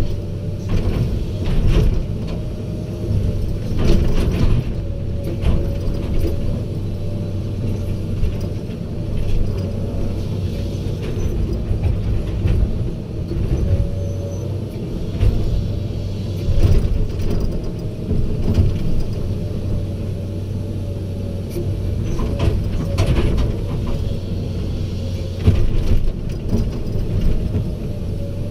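Heavy diesel machinery running steadily at a low hum, with scattered metallic clanks and knocks.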